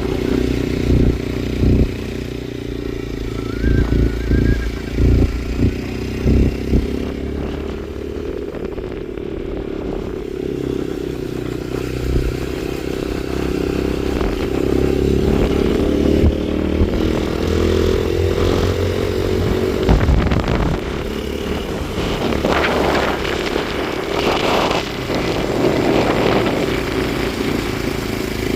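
Motorcycle engine running while riding, its pitch rising and falling with the throttle. A series of heavy thumps comes in the first several seconds.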